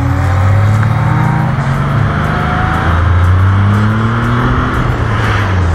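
A Porsche's engine accelerating over wind and road noise, its pitch climbing and dropping back at gear changes about twice.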